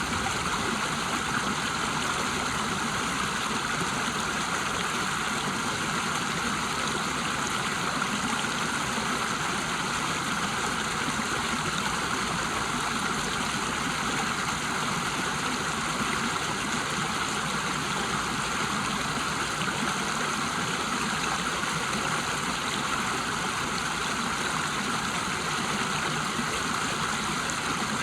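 River water rushing over a waterfall in a steady, unbroken rush.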